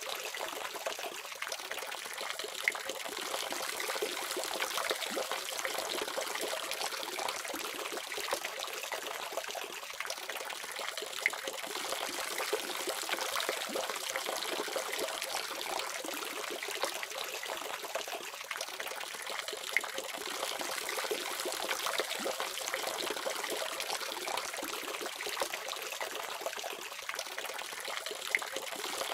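Water running steadily from a faucet tap, a continuous splashing hiss with a few sharper splashes now and then.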